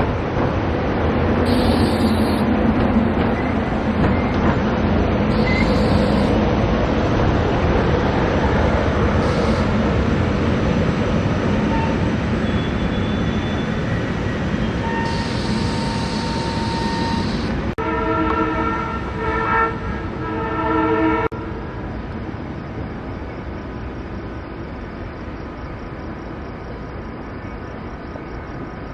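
A SEPTA Regional Rail commuter train running through the station with a steady rumble, sounding its horn for about three seconds near two-thirds of the way in; the horn cuts off suddenly and the rail noise then fades away.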